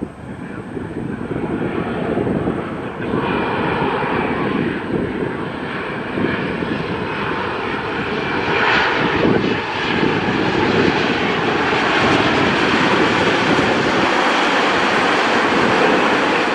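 Jet airliner's engines, a loud steady rush that grows louder toward the end.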